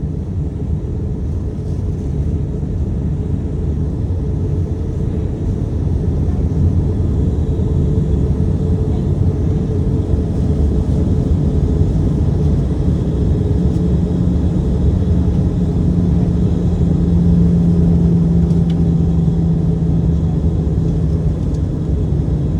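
Airbus A320 cabin noise on approach: a steady low rumble of airflow and engines that grows slightly louder, with a steady low hum joining about halfway through.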